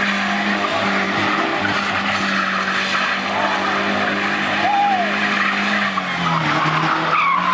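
A pickup truck doing a burnout: the engine is held at high, steady revs while the rear tires spin and squeal on the pavement. The revs drop about six seconds in.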